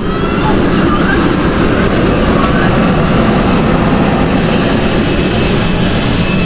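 Loud, steady rumble and rush of vehicle engine noise, with no clear pitch and no let-up.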